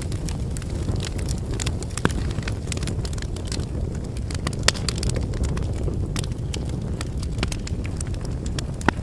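Wood campfire burning: a steady low rush of flames with frequent irregular crackles and pops from the burning logs, a few louder snaps among them.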